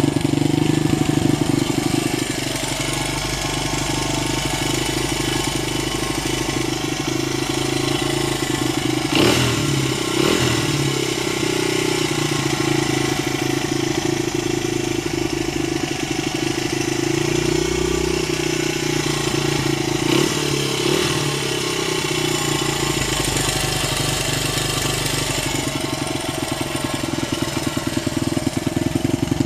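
1996 Honda XR100's four-stroke single-cylinder engine idling steadily, with brief blips of the throttle around nine to ten seconds in and again around twenty seconds in.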